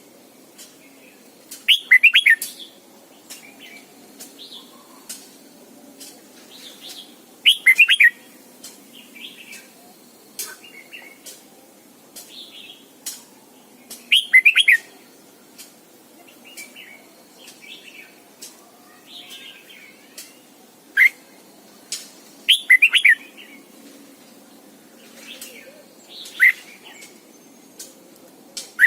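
Red-whiskered bulbul singing: short, loud warbled phrases every six seconds or so, with softer chirps and calls between them.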